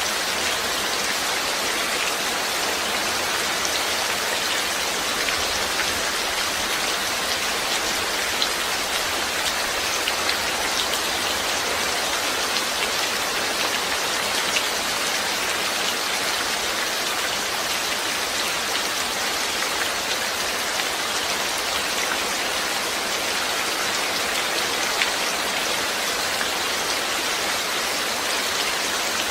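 Steady rain falling, an even hiss with a scatter of individual drop ticks.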